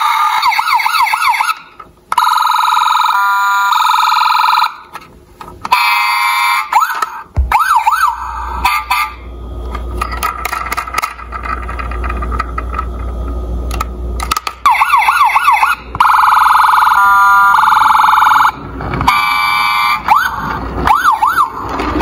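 Electronic emergency-vehicle siren sounds: fast wailing sweeps alternating with steady pulsing tones, coming in bursts with short breaks. A low rumble runs underneath through the middle.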